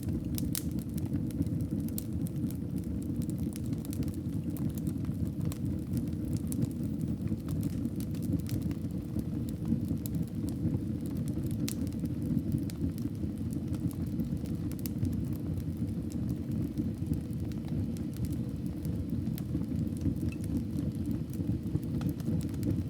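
Wood fire burning in a fireplace: a steady low rumble of flames with scattered sharp crackles and pops of burning wood.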